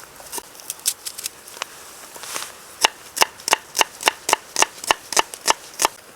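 Kitchen knife chopping onion finely on a board: a few scattered strokes, then a quick, even run of sharp chops, about five a second, through the second half.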